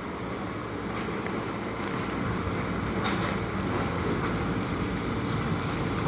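New York City Subway L train running on the track: a steady rumble that slowly grows louder, with a few faint wheel clicks.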